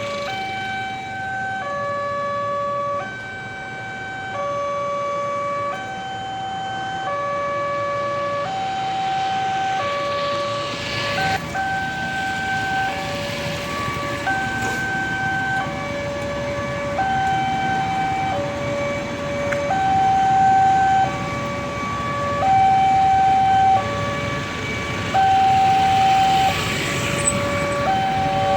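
Railway level-crossing warning alarm sounding a two-tone signal: a lower and a higher tone alternate, each held about a second, repeating steadily, the warning that a train is approaching. A rushing noise swells up twice, around ten seconds in and near the end.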